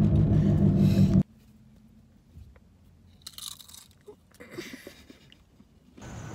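Car engine running, heard from inside the cabin as a steady low hum that cuts off abruptly about a second in. Then it is quiet with faint rustles and small clicks, and a steady low hum returns near the end.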